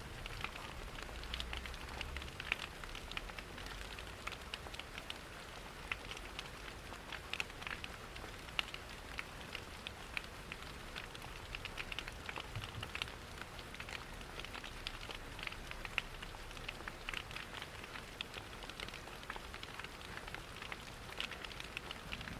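Steady rain hiss mixed with a crackling wood fire, whose small irregular pops and snaps come several times a second.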